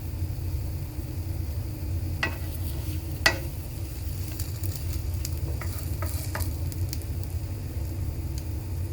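Egg-dipped bread frying in a pan with a quiet sizzle, and a few sharp clinks of a utensil against the pan, the loudest about three seconds in, over a steady low rumble.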